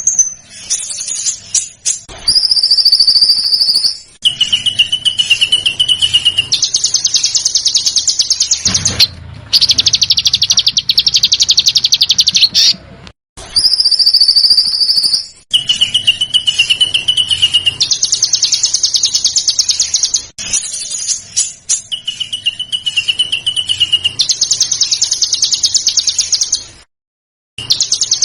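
Recorded songbird song played as an edited tutor loop: high whistled notes and trills alternating with long, very rapid buzzy trill bursts, broken by abrupt cuts. The same sequence of phrases repeats about halfway through.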